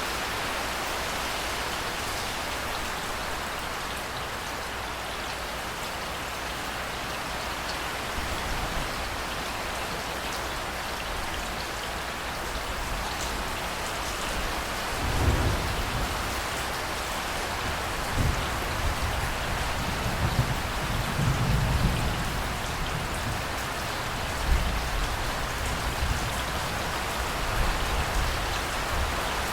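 Steady rain falling. From about halfway through, low rumbles of thunder roll in several times.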